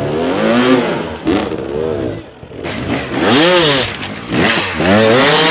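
Dirt bike engine revving hard in repeated throttle blips, its pitch rising and falling back about once a second.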